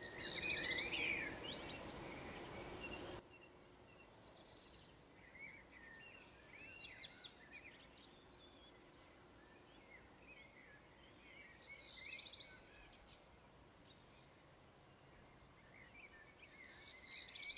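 Several birds chirping and calling in short, sweeping notes, faint throughout. Steady outdoor background noise sits under the calls for the first three seconds, then drops away.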